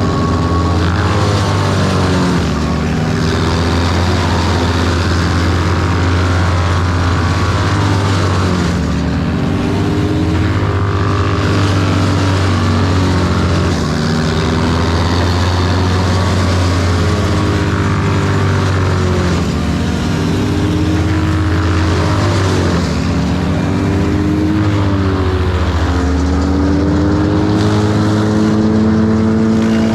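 A large engine running continuously under a steady load, its pitch rising and falling again and again as it is throttled up and down.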